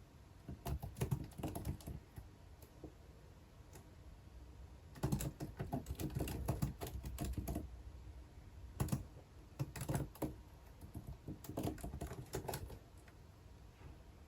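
Typing on a computer keyboard in four short runs of quick key clicks, with brief pauses between them.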